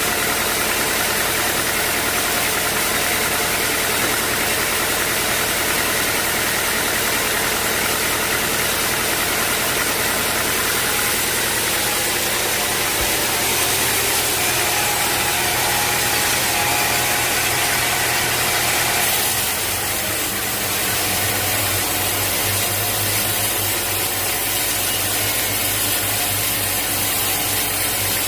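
Sawmill machinery running steadily with a dense, even mechanical noise. About two-thirds of the way through the sound shifts, and a steady low hum comes in.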